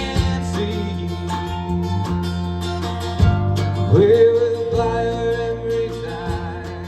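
A live band playing: strummed and plucked guitar over a steady bass line, with a long note that slides up and holds about four seconds in.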